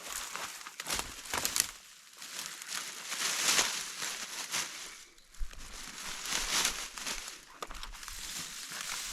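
Uneven rustling and crinkling, with scattered sharp crackles and clicks and a short lull about five seconds in.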